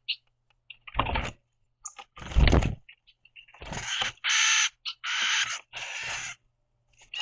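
Northern cardinals squabbling at a wooden platform feeder: about six short bursts of wing flutters and landings, with harsh, rasping growl calls made when they are angry.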